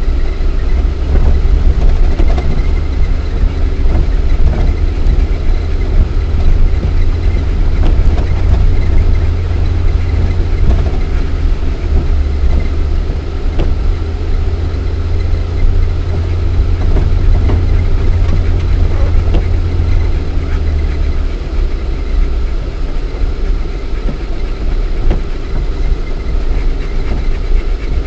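Lada Niva 1.7i four-cylinder petrol engine running as the 4x4 drives off-road, heard inside the cabin, with scattered knocks and rattles from the body over rough ground. The deep rumble eases about 21 seconds in.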